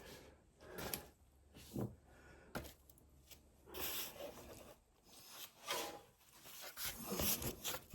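Scattered faint scrapes, clicks and rustles of hands working a mower blade belt around its pulleys and tensioner, in irregular short bursts.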